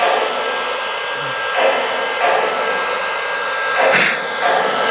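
Lionel O-scale 0-8-0 steam locomotive's sound system playing steam sounds through the speaker under its tender as the train backs up: a steady hiss broken by short chuffs, the loudest near the end.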